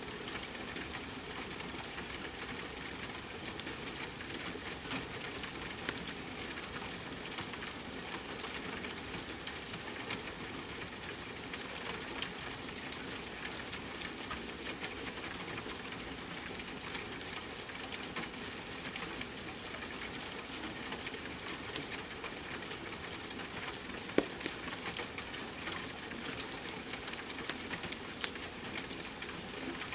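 Steady rain hiss layered with a crackling wood fire: a continuous patter with many small crackles and a few sharper pops in the last third.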